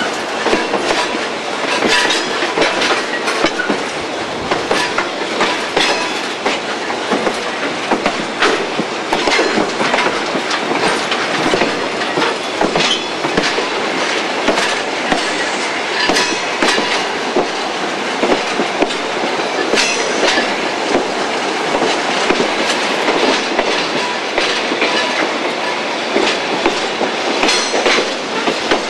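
A passenger train rolling along at speed, its steel wheels clattering over the track with a steady run of irregular clicks and knocks.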